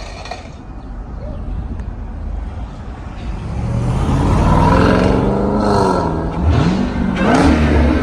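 Supercharged 6.2-litre V8 of a 2018 Jeep Grand Cherokee Trackhawk, breathing through a Borla ATAK cat-back exhaust, accelerating hard. The engine gets louder and rises in pitch from about three seconds in, drops briefly near six seconds, as at an upshift, and climbs again.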